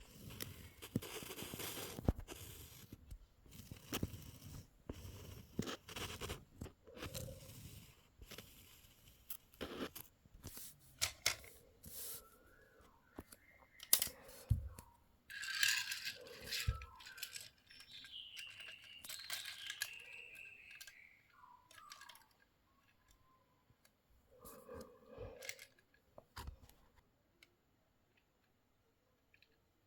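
Toy car packaging being torn open and handled: tearing, crinkling and clicking of cardboard and plastic in uneven bursts. A brief squeaky, gliding sound comes about halfway through, and the handling stops near the end.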